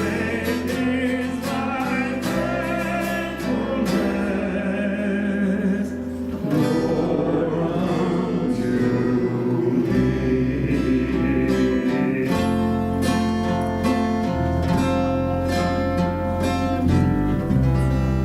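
Live worship song: voices singing over a strummed acoustic guitar, with low bass notes that change every couple of seconds.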